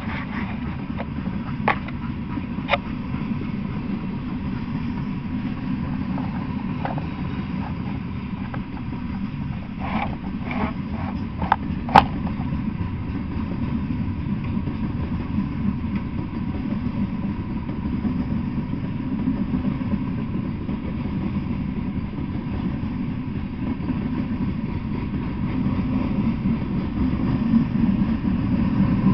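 Freight train rolling past: a steady low rumble of steel wheels on the rails, with a few sharp clanks, several of them bunched together about ten to twelve seconds in.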